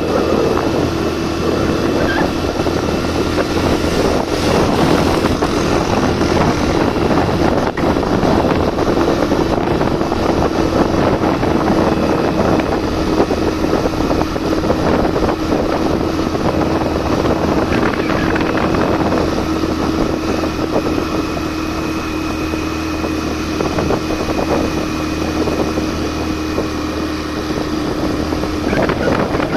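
Suzuki GN 125's single-cylinder four-stroke engine running at a steady pitch while ridden, the tone fading out near the end.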